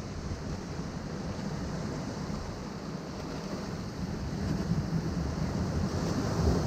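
Ocean waves breaking and washing among shoreline rocks: a steady rush with a low rumble, swelling louder over the last couple of seconds.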